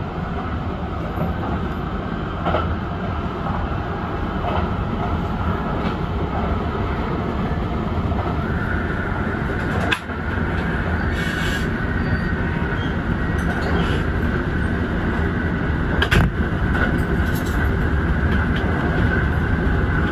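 Kintetsu Urban Liner limited express electric train running at speed, heard from the driver's cab: steady rumbling running noise with a faint high whine and a few sharp clicks.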